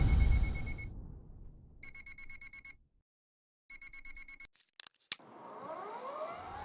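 Rapid electronic beeping in two short bursts with a brief silence between them, a few sharp clicks, then a rising whine that climbs steadily in pitch, as of an electric motorcycle's motor speeding up.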